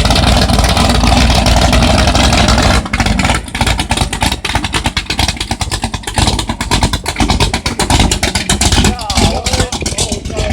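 Car engine running loud and steady, changing abruptly about three seconds in to a rapid, choppy pulsing.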